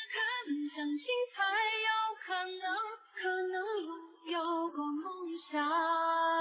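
A high female voice singing a slow melody as background music, holding a long note near the end.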